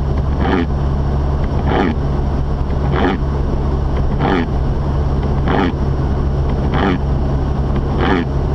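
Inside the cabin of a Mazda RX-8, with its twin-rotor rotary engine and tyres making a steady low drone while driving. Over it, the windshield wipers make a regular swish about every one and a quarter seconds, each stroke ending in a short squeak that falls in pitch.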